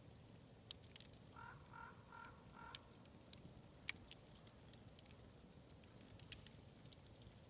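Wood fire crackling softly, with sparse sharp pops and snaps at irregular intervals. A run of four short, evenly spaced high notes sounds about one and a half seconds in.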